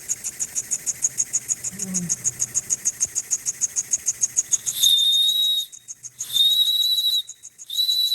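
Small steam engine running, its exhaust chuffing fast and evenly at about eight beats a second. About five seconds in, its steam whistle sounds three times, a steady high note, the third blast the longest.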